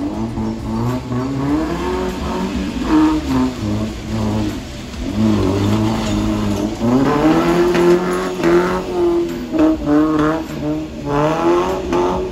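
Small hatchback's engine revving hard, its pitch climbing and dropping back over and over as the car slides around in circles on mud.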